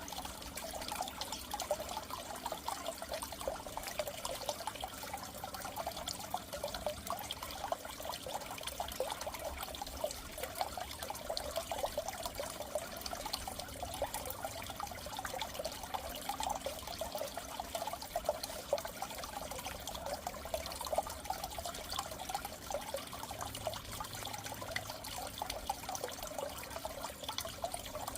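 Goldfish aquarium water trickling and bubbling steadily.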